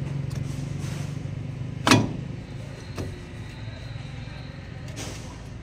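One sharp knock about two seconds in, followed by two lighter clicks, over a steady low hum.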